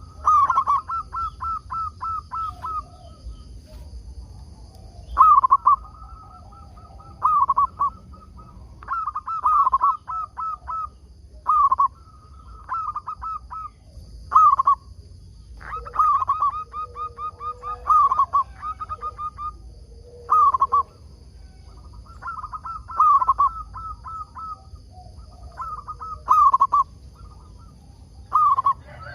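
Zebra dove (perkutut) cooing in repeated phrases. Each phrase is a strong opening coo followed by a quick run of short staccato notes, and a new phrase starts every second or two.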